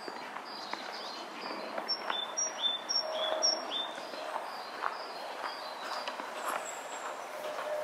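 Small birds calling: a steady run of short high chirps, joined about two seconds in by a louder two-note call, a high note dropping to a lower one, repeated four times in quick succession. Faint footsteps underneath.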